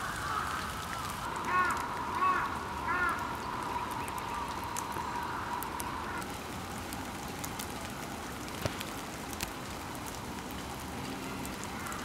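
A bird calls three times in quick succession in the first few seconds, short arched notes, over a steady hiss of falling sleet with scattered drip-like ticks.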